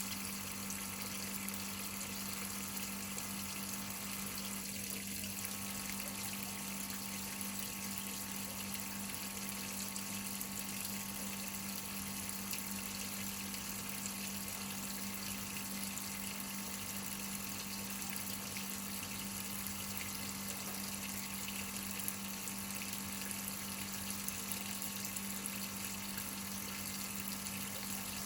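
Whirlpool top-load washing machine filling its tub with water: a steady rush of water over a constant low hum.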